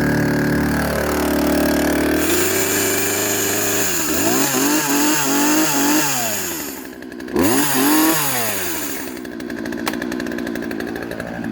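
Poulan Wild Thing two-stroke chainsaw running. Its engine pitch sweeps up and down several times in the middle as the throttle is worked, with a brief dip, then it settles to a steady idle near the end.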